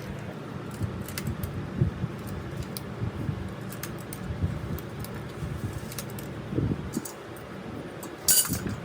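Small metal parts clinking and tapping over a steady low background noise, with one louder, sharper metallic clatter near the end.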